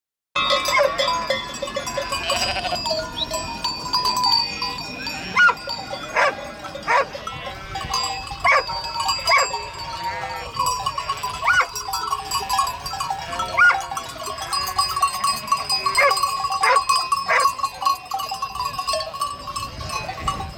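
Animal calls: many short, pitched cries in quick succession over a steady tone, starting abruptly.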